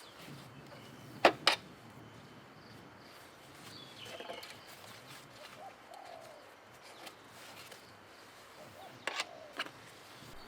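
Faint outdoor ambience with a few short bird calls. Two pairs of sharp knocks stand out, a quick double knock about a second in and another near the end.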